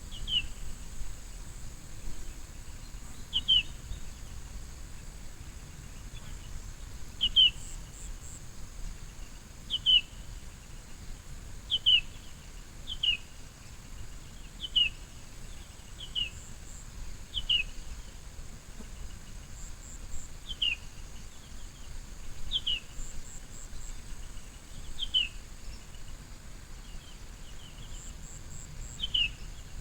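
A bird repeating a short call that slides downward in pitch, a dozen or so times at uneven intervals of one to three seconds. Under it runs a steady high insect drone.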